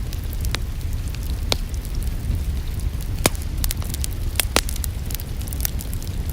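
Wood fire crackling in a fireplace: sharp pops every second or so, with fainter ticks between them, over a steady low rumble.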